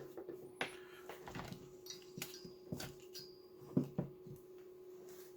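Scattered light clicks and taps of small equipment being handled on a workbench, with a couple of sharper knocks near the middle, over a faint steady hum.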